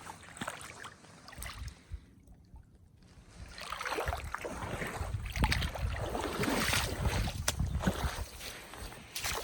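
Water sloshing and knocking around a sit-on-top fishing kayak as it moves on the water, louder and busier from about three and a half seconds in.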